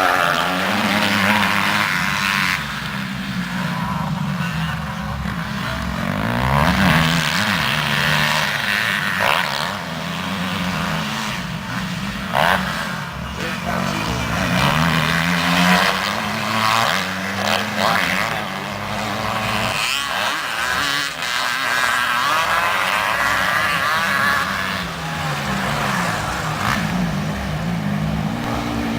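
Motocross motorcycle engines racing, revving up and down repeatedly as the bikes accelerate and shift around the track.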